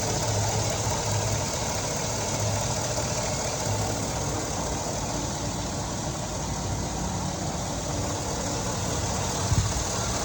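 Freshly rebuilt 5.3-litre LS V8 of a 2005 Chevrolet Silverado idling steadily just after its first start.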